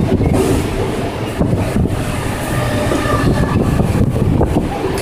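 Mumbai Harbour line local train, an electric multiple unit, running at speed, heard from inside the carriage at an open window: a loud, steady rumble of wheels on the track.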